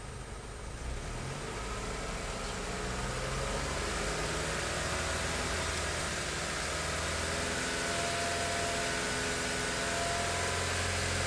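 Car engine, heard from inside the cabin, revving gradually up from idle and then held at a steady speed of about 2,000 rpm. This is the raised-rpm step of an alternator charging-voltage test.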